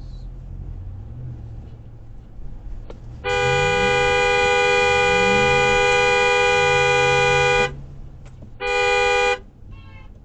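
Car horn blown in one long blast of about four seconds, then a second short honk, over the low hum of vehicle engine and road noise.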